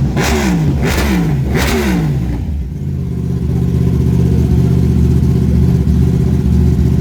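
Yamaha R1's inline-four engine through an Akrapovic World Superbike exhaust, blipped sharply three times in quick succession, the revs dropping fast after each. It then settles into a steady idle for the rest of the time.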